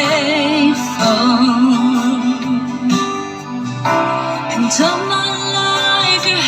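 A worship song playing through a 10-inch Targa speaker: singing with held, wavering notes over guitar.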